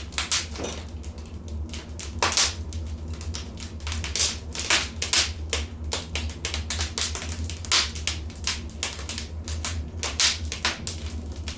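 Wood fire in a fireplace crackling, with frequent irregular sharp pops and snaps over a steady low hum.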